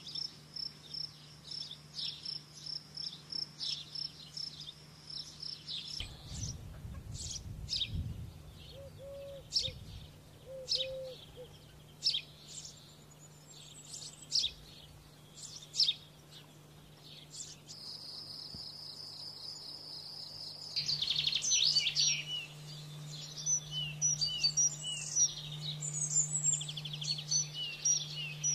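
Domestic canary singing: a high pulsing trill, then scattered short chirps and a long rapid rolling trill, breaking about 21 s in into a busy warbled song of many quick notes. A low steady hum runs underneath.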